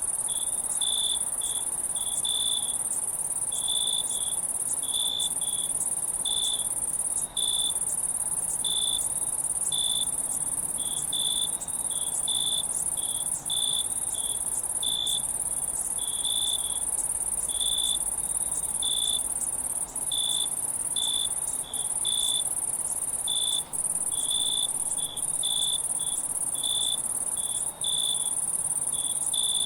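Night insect chorus: a steady high-pitched insect buzz, with a cricket chirping in short pulses about once or twice a second.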